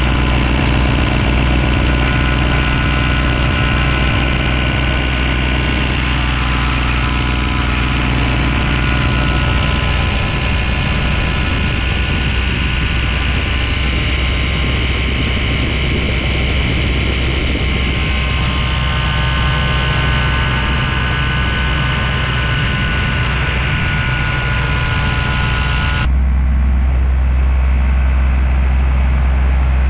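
Paramotor engine running steadily at a constant drone with a pitched whine. Near the end the sound changes abruptly, turning duller with a stronger low hum.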